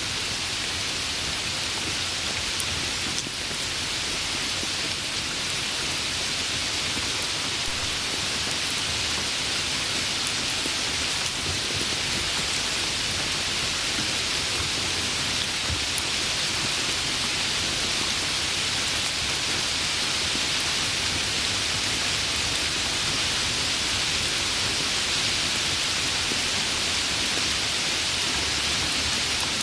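Steady, continuous rain, an even hiss of falling drops with no let-up or change.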